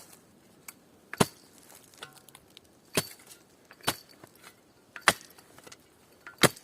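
Axe chopping wood: five sharp blows, about one to one and a half seconds apart.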